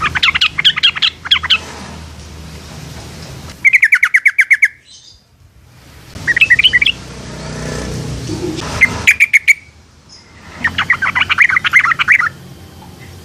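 Yellow-vented bulbuls calling in about five bursts of rapid, bubbly chattering notes with short pauses between them.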